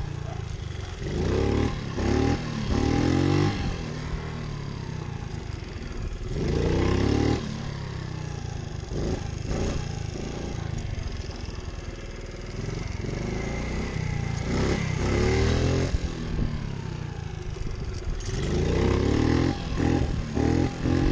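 Pit bike engine revving hard in repeated bursts for wheelies, dropping back to a lower, steadier run between the bursts.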